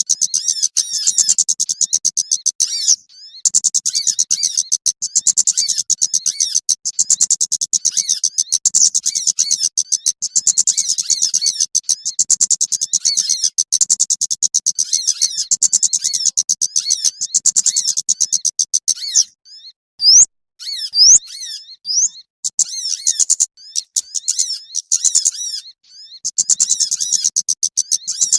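Rapid, continuous high-pitched chirping of small birds, a bird-luring call track for attracting small birds. About two-thirds through the chatter breaks off briefly and a few separate rising whistles sound before it resumes.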